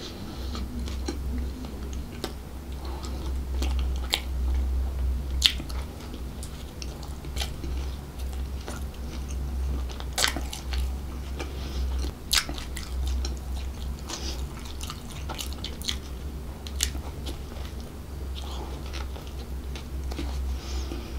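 A person chewing a bread bun close to the microphone, with many short crisp crackles and wet clicks of mouth and food. A steady low hum runs underneath.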